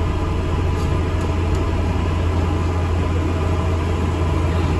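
Steady low engine drone and running noise inside an ADL Enviro 400 MMC double-decker bus, even throughout.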